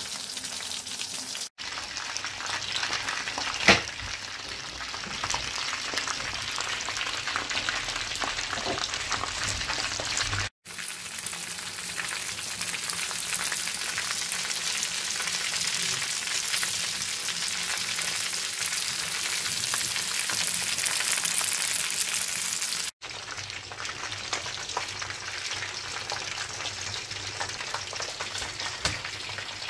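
Battered chicken pieces frying in a pan of hot oil: a steady crackling sizzle, broken by three momentary gaps. One sharp click sounds a little under four seconds in.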